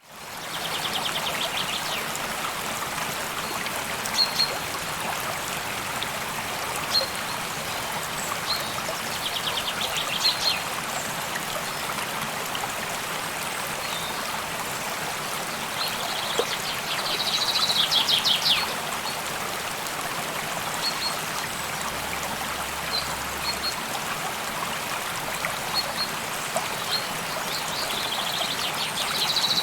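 A stream running steadily, with a bird singing a rapid trill four times, several seconds apart, and short high chirps in between.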